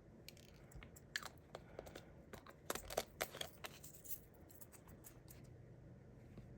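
Faint crinkling and light clicking of a small plastic bag of diamond-painting drills being handled, mostly in the first four seconds.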